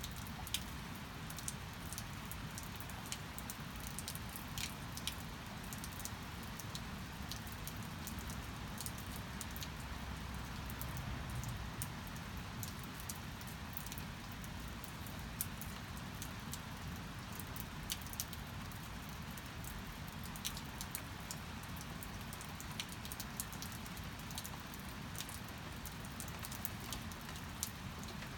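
Steady rain falling, with frequent sharp drops and drips striking close by.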